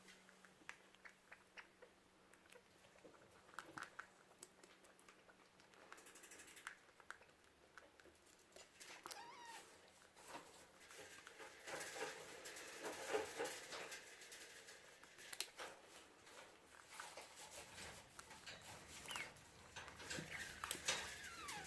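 A degu scrabbling and tugging at a piece of dried parsley treat held out to it: faint scratching, rustling and small clicks, busier about halfway through and again near the end.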